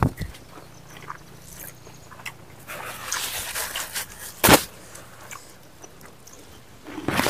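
Close-up eating sounds of people chewing pork and rice: wet chewing and lip smacks, with a sharp loud smack about four and a half seconds in and another near the end.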